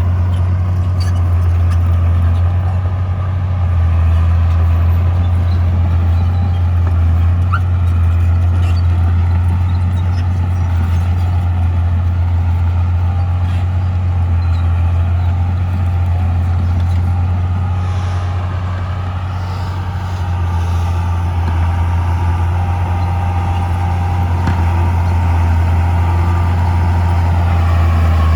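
Heavy diesel engine of earthmoving machinery running steadily with a strong low drone, easing off slightly about twenty seconds in before picking up again.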